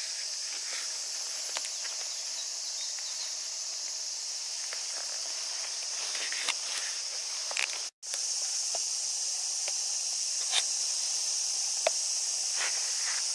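A steady, high, hissing chorus of cicadas, with a few scattered clicks and footstep-like crunches. The sound drops out for an instant about eight seconds in, then resumes.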